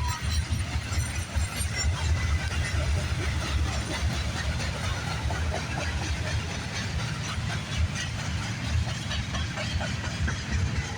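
A long train rolling past at close range: a steady rumble of wheels on rail with scattered clicks and clacks from the passing cars.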